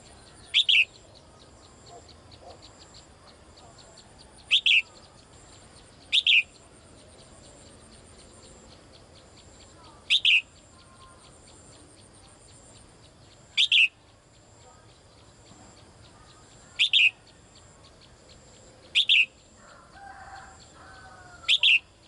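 A caged female songbird giving a short, sharp call that slides down in pitch, repeated eight times at uneven gaps of two to four seconds, calling for a male. Softer chirps come in near the end.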